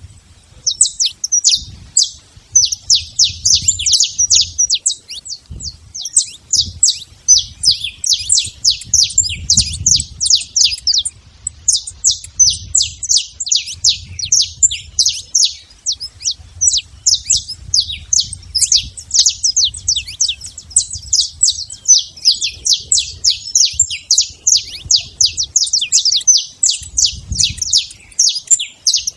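Saffron finch singing: a long run of rapid, high chirping notes that goes on with only brief gaps.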